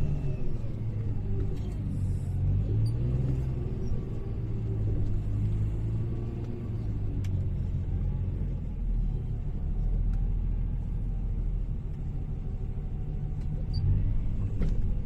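Hyundai HL780-7A wheel loader's diesel engine running, its pitch rising and falling as the throttle changes while it works, with a few light clicks and knocks.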